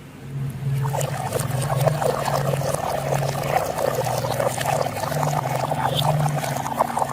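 Marbles rolling and clattering down a wooden marble run in a dense, continuous rattle that starts about a second in, over a low hum.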